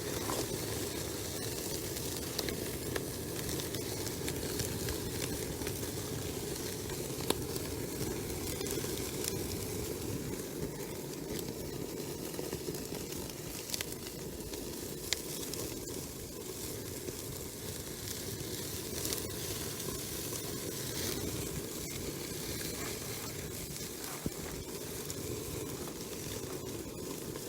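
Wood fire burning with a steady hiss and scattered sharp pops and crackles.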